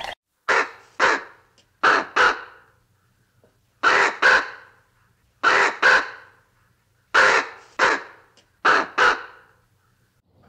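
A bird's harsh cawing calls, given in six pairs about a second and a half apart, each pair two short calls in quick succession.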